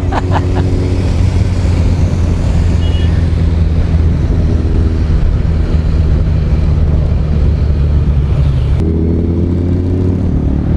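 Motorcycle engine running steadily at riding speed, with heavy wind rush on the microphone. About nine seconds in, the wind hiss falls away and the engine note changes.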